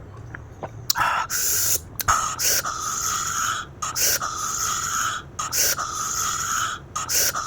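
Loud mouth sounds of a person eating very spicy noodles: a run of long, noisy pulls of air or noodles through the mouth, each lasting about a second and broken by short pauses.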